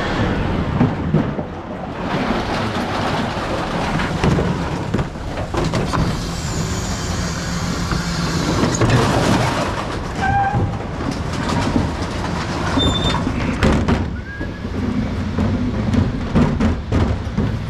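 Mercedes Econic refuse truck working at the rear: the bin lift and hydraulics run with the engine, and emptied recycling rattles and clatters into the hopper, with a few brief metal squeaks partway through.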